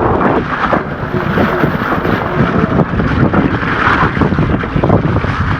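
Wind rumbling on the camera microphone as an e-mountain bike is ridden along a wet trail, with frequent short knocks and rattles from the bike over the ground.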